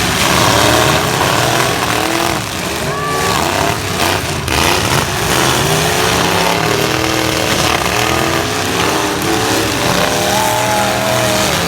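Engines of several demolition-derby light trucks revving up and down at once, loud, their pitches rising and falling over each other.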